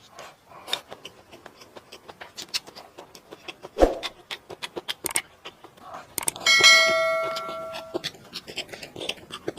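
Close-up eating sounds: wet chewing and smacking clicks, with a sharp knock about four seconds in. About six and a half seconds in, a metal utensil strikes a dish with a bell-like metallic ring that fades out over a second and a half, the loudest sound here.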